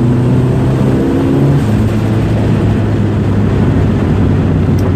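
Turbocharged Toyota Tercel engine running under way, heard from inside the cabin. The note climbs gently, then changes about a second and a half in. The turbo's blow-off valve no longer works.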